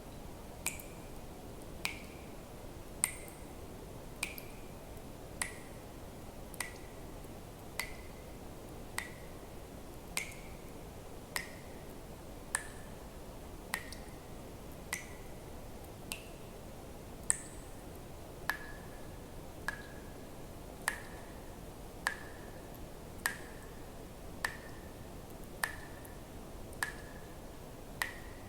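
Water drops dripping steadily, about one every 1.2 seconds, each a sharp plink with a brief ringing tone whose pitch shifts a little from drop to drop, over a faint steady hiss.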